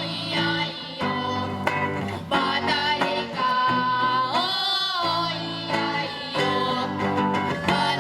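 Girls' vocal ensemble singing a song over guitar accompaniment, with a long held, bending note about halfway through.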